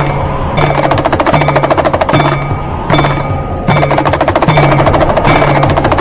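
Damru, the hand-held hourglass drum, rattled rapidly so its cord beads strike both heads in fast rolls, broken by short pauses, over a recurring low steady tone.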